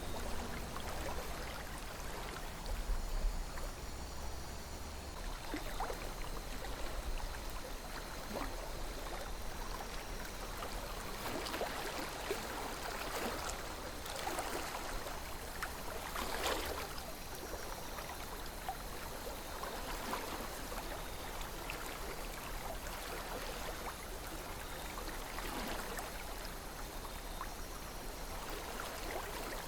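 A calm river flowing steadily, its water running with small gurgles and splashes scattered through the rush.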